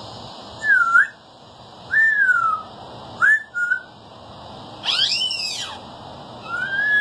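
African grey parrot whistling: a series of short clean whistles, some dipping and rising, some falling, with a louder call of several tones about five seconds in.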